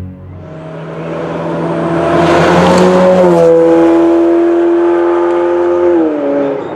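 Ferrari 812 Superfast's naturally aspirated V12 through an FM Performance stainless sport exhaust, accelerating hard. The note swells over about two seconds, steps down in pitch about three and a half seconds in, holds, then drops again near the end as the sound fades.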